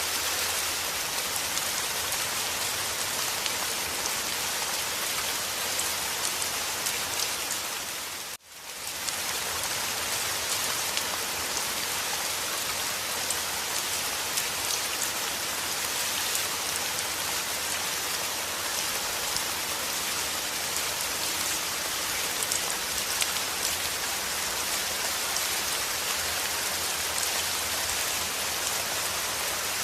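Rain falling steadily in a dense patter of drops. About eight seconds in, the sound dips sharply for a moment and then comes back.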